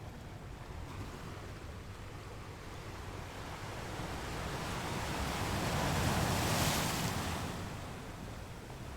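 Ocean waves: one wave builds and breaks, at its loudest about two-thirds of the way through, then washes back and fades.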